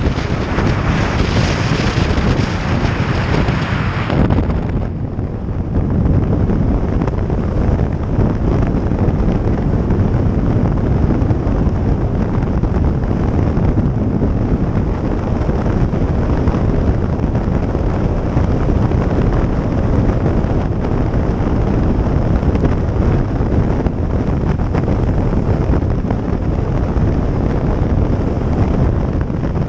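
Wind rushing over the camera microphone on a moving motorcycle, a heavy steady low rumble. The brighter hiss on top drops away about five seconds in.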